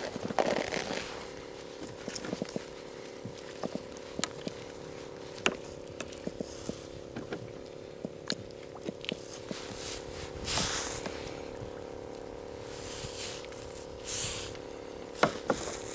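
Scattered light clicks, taps and scrapes of a fish being handled and measured aboard a kayak, with a couple of brief rustling swishes and a faint steady hum underneath.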